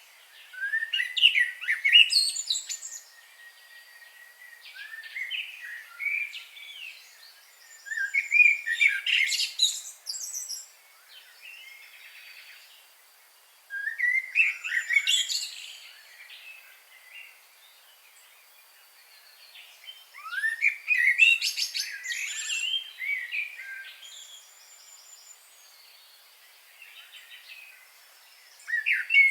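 Songbird singing a loud, complex phrase of two to three seconds, repeated about every six seconds, with fainter chirps and thin high trills from other birds in between.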